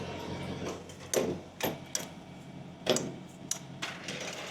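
About five sharp, irregular clicks and knocks, roughly a second apart, over the steady low hum of an idling semi truck.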